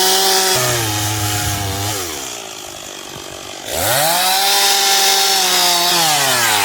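Two-stroke chainsaw cutting into a log: it runs at high revs, drops back to idle about two seconds in, then revs sharply back up just before four seconds and holds before easing off near the end.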